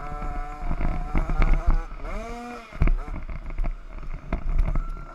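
Small 50cc motocross bike engines revving up and down as the riders race, the pitch climbing and falling with the throttle, over low rumble and a few knocks.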